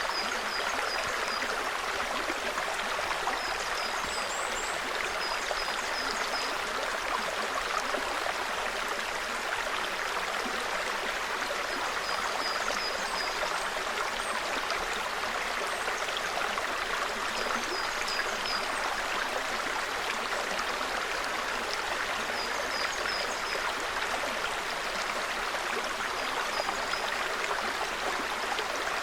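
A small forest brook babbling steadily over stones, with a small bird's short, high chirps in quick runs of three or four every few seconds.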